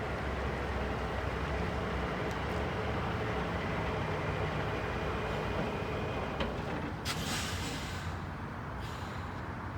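The Cummins 350 diesel engine of a 1980 International crane truck running steadily on the road. A short hiss breaks in about seven seconds in.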